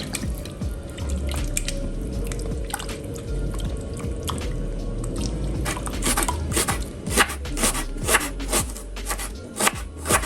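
Irregular sharp clicks and taps over a low hum, coming faster and louder about six seconds in.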